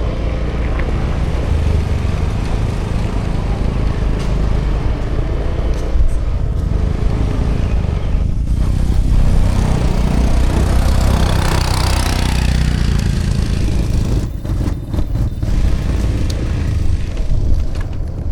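2018 Honda Vision scooter's small single-cylinder engine running steadily under way, with road and wind noise. The rushing noise swells about ten seconds in and eases off a few seconds later.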